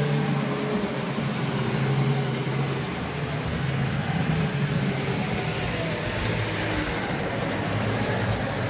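Tri-ang Railways model train running on the layout track: a steady electric motor hum whose pitch wavers slowly, with wheel and track noise.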